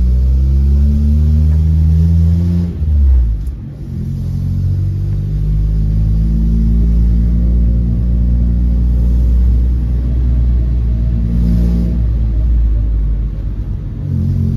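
Car engine running while driving, a steady low hum with road noise that breaks off briefly about three seconds in, as at a gear change, before settling back into steady running.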